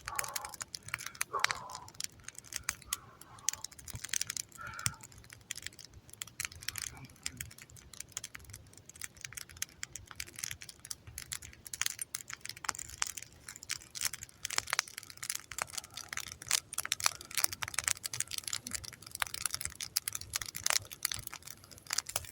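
Wood campfire crackling: dense, irregular pops and snaps of burning wood, with no let-up.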